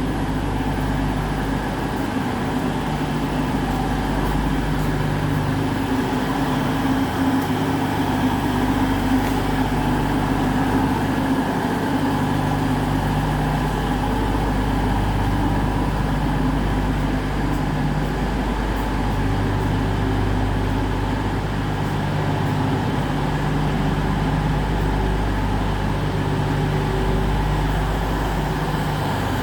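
Class 222 Meridian diesel multiple unit standing with its diesel engines idling: a steady low drone, with low tones that drop out and return every few seconds.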